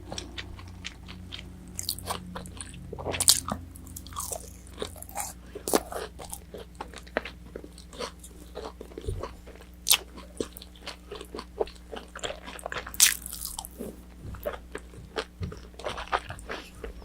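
Close-miked biting and chewing of crispy battered orange chicken, with many sharp crackling crunches. The loudest crunches come about three, ten and thirteen seconds in.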